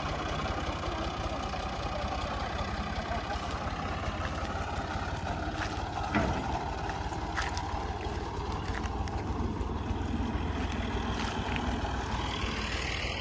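Clayson 8080 combine harvester running steadily with a low rumble, with one sharp knock about six seconds in.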